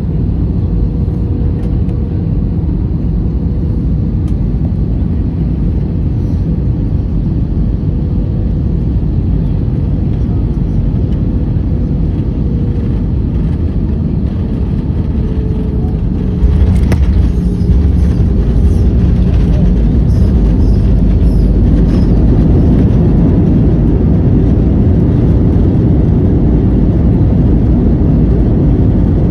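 Airliner cabin noise during landing: a steady engine and airflow rumble with a faint whine that sinks slightly in pitch. About halfway through, the rumble jumps suddenly louder, with rattling, as the wheels touch down, and it stays louder through the rollout.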